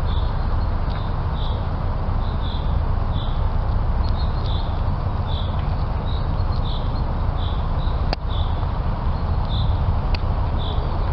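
Steady low outdoor rumble, with a small bird repeating a short high chirp about once a second.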